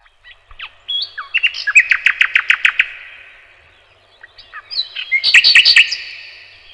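A songbird singing two phrases. Each is a quick run of clear, high chirps lasting about a second and a half: the first starts about a second in and ends in a fast trill, and the second comes a little past the middle.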